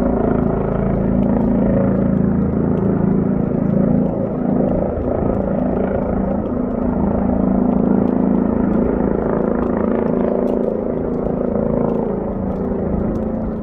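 Yellow rescue helicopter hovering, its rotor and turbine making a steady, loud drone with a low rumble, heard through a phone's microphone.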